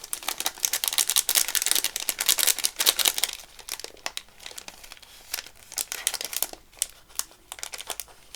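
Crinkling of a plastic packet and paper as small paper flowers are picked through by hand. The crackling is dense for the first few seconds, then thins to scattered crackles.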